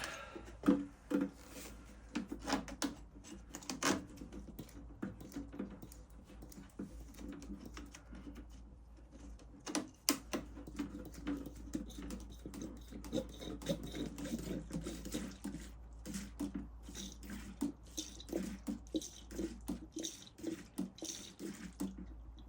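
Water trickling and pouring, with scattered light clicks and knocks of handling throughout.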